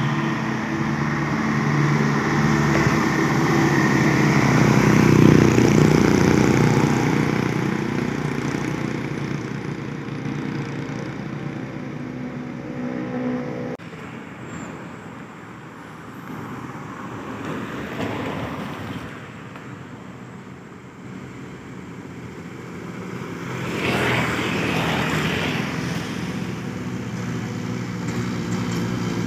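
Light truck engines running as trucks drive by, the sound swelling and fading several times, with an abrupt change about halfway through.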